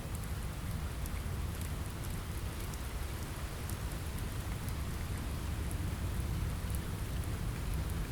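Steady rain on a window, an even hiss over a deep low rumble, with scattered small sharp ticks.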